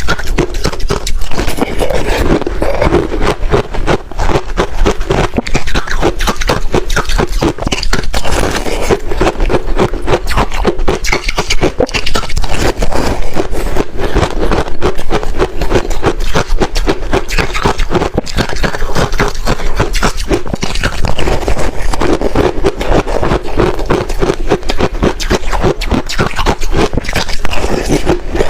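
Close-miked chewing and crunching of freezer frost: a dense, unbroken run of crisp crackles.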